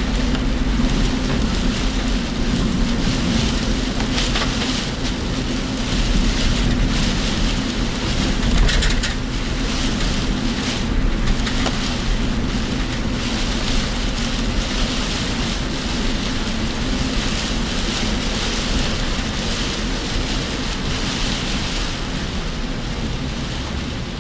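A car driving through heavy typhoon rain and wind, heard from inside the cabin: a steady rush of tyres on the wet road and rain on the bodywork, surging briefly now and then.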